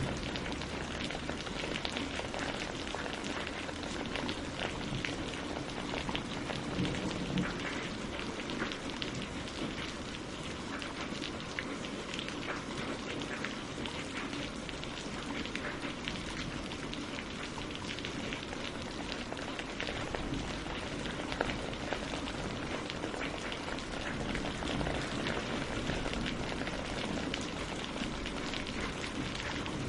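Steady rain falling on leaves and lake water, a constant hiss with many distinct drops ticking through it.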